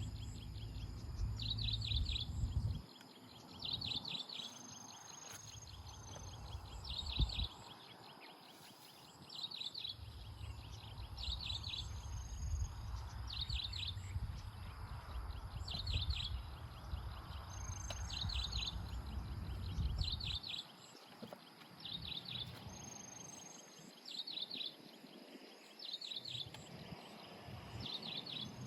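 A bird calling over and over: a short burst of chirps about every second and a half, with a thin higher whistle between some of them. A low rumble comes and goes underneath.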